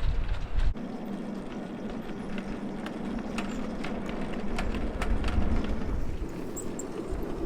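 5-inch gauge miniature train running: a steady hum with frequent irregular clicks of wheels over the rail joints. Wind buffets the microphone for the first moment, then cuts off.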